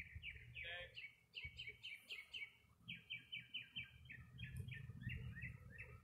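A songbird singing runs of quick, repeated chirps, about five to six notes a second, over a faint low rumble.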